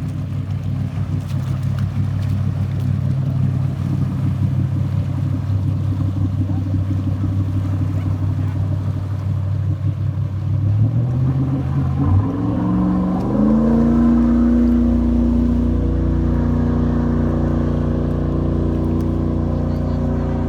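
Fire apparatus engine running steadily, then rising in pitch about halfway through as the vehicle accelerates away, settling at a higher steady pitch.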